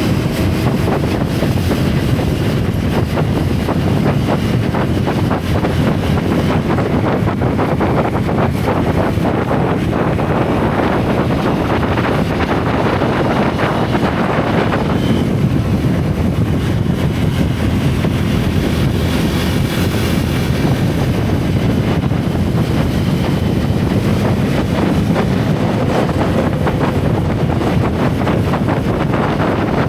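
Single-cylinder motorcycle engine and exhaust running on the move, mixed with heavy wind rush on an action camera's microphone. The higher part of the noise drops away suddenly about halfway through.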